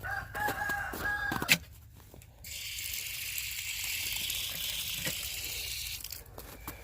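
Rooster crowing, one drawn-out call, ending in a sharp click about a second and a half in. Then a steady high hiss for about three and a half seconds.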